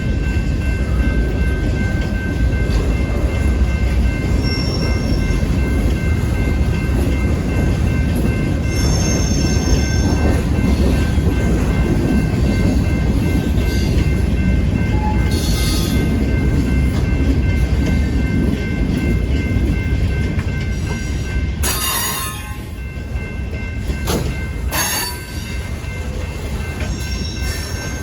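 Freight train rolling past: a steady low rumble of cars on the rails, with faint steady high-pitched tones over it. Short hissing noises come in about twenty-two seconds in as the rumble eases a little.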